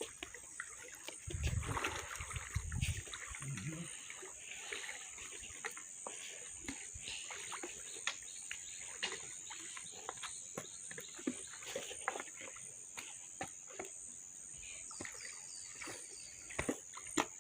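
Water splashing and sloshing in irregular small splashes as someone wades across a flooded stream, with the stream trickling.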